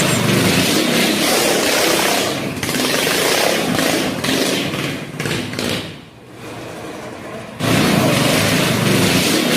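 Small gasoline engine of a miniature car running hard, loud and rough. It drops away about six seconds in, then comes back at full loudness near the end.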